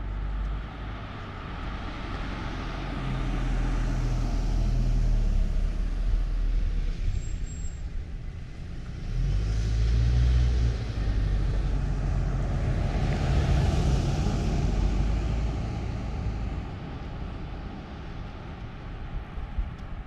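Road traffic: motor vehicles driving past on a street, the engine rumble and tyre noise swelling and fading twice.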